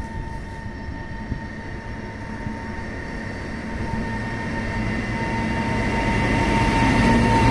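Indian Railways freight train approaching, its low rumble with a steady high whine growing steadily louder.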